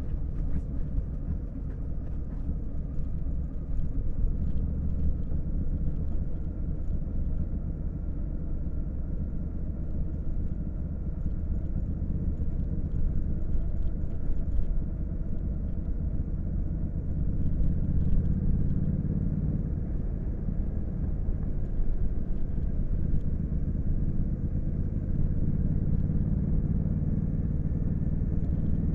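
Honda Africa Twin CRF1100L's parallel-twin engine running on the move as a steady low rumble, swelling a little about two-thirds of the way through and again near the end.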